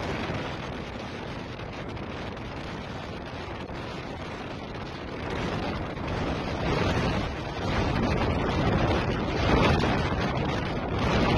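Strong gusty wind blasting across the microphone: a loud, rushing noise that swells in gusts about halfway through and again near the end.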